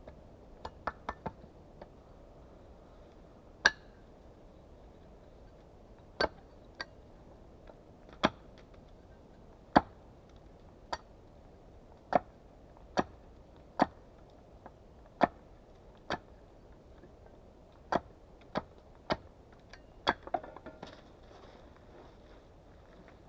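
Wood being struck with a hand tool. First a few quick light taps, then single sharp blows every second or so, with a short cluster of smaller knocks near the end.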